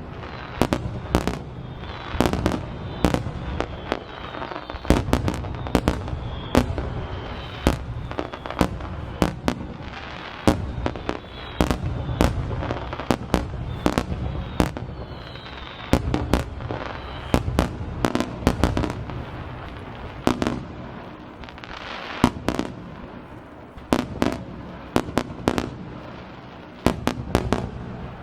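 Aerial firework shells bursting in a rapid barrage of sharp booms and cracks, several a second, with high whistles gliding between some of the bursts.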